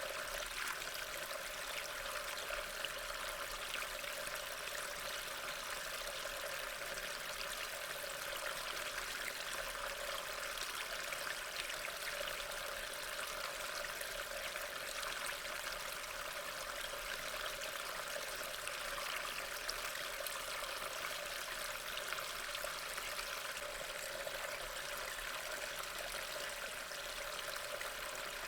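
Steady rain, an even hiss of falling water that does not let up.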